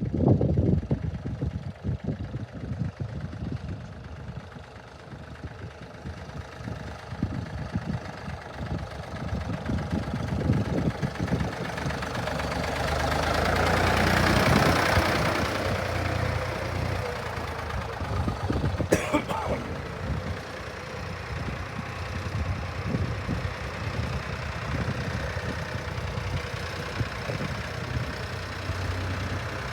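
Ford 3000 tractor engine running as it comes in, growing louder to a peak about halfway through, then settling to a steady idle. A sharp click sounds about two-thirds of the way through.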